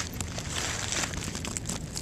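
Rustling with scattered small crackles, like movement through dry brush.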